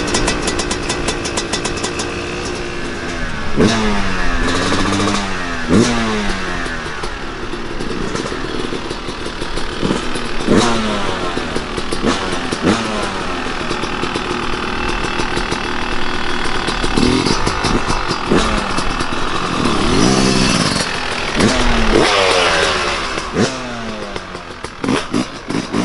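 Dirt bike engines revving through the gears, the pitch rising and dropping again and again as the bikes accelerate, shift and back off.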